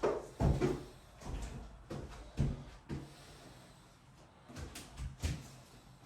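Irregular knocks and thumps, about half a dozen spread over a few seconds, the loudest in the first second.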